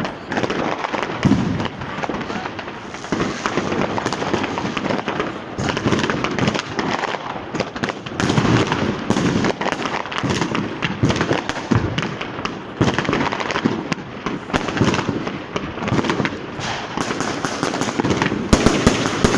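Street fireworks going off continuously: a dense run of firecracker bangs and crackling, with rapid strings of small cracks growing thicker near the end.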